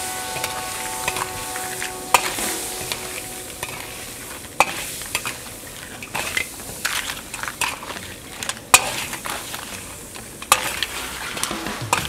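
Crab pieces frying in butter and garlic, sizzling steadily as they are stirred, with a few sharp clacks of the stirring utensil; the loudest clack comes about nine seconds in.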